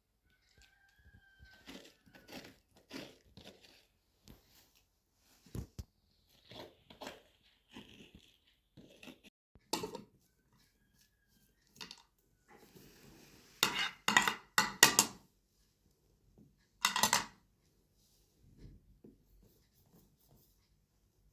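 Intermittent clinks, knocks and crinkling of things being handled, with a quick run of sharp, loud clatters about two-thirds of the way through and one more shortly after.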